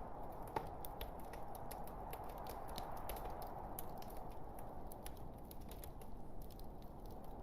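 Wood fire burning in a fireplace: irregular crackles and snaps over a steady low rush of flame, with one sharper pop about half a second in.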